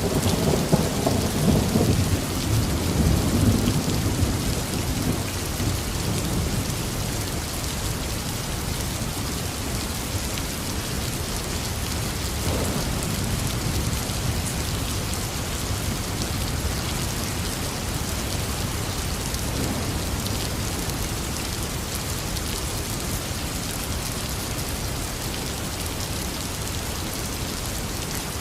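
Heavy rain falling steadily, with a roll of thunder rumbling low and loud in the first few seconds and dying away, then fainter distant rumbles under the rain.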